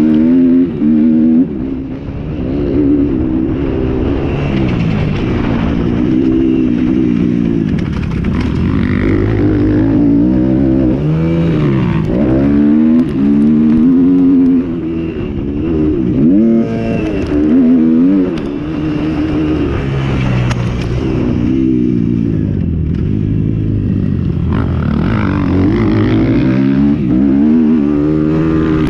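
Several motocross bikes racing, their engines overlapping and revving up and down repeatedly as they accelerate, shift and back off.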